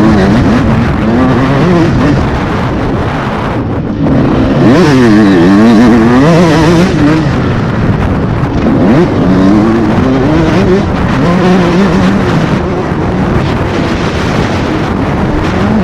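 125cc motocross bike engine revving up and down hard, again and again, with a brief chop of the throttle about four seconds in.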